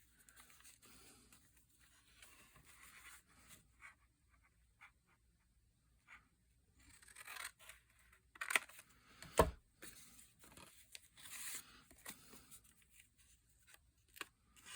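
Quiet paper handling and cutting: soft rustling, tearing and snipping of paper, with scattered small clicks and one sharp click about nine and a half seconds in.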